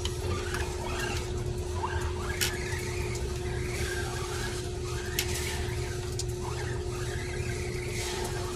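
Arrma Granite electric RC truck driving over wet ground, its motor giving short whines that rise and fall with the throttle. A steady hum runs underneath, and there are a few sharp clicks.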